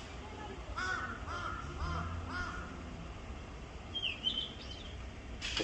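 Birds calling: four harsh, arched calls in quick succession, then a brief high whistled note about four seconds in.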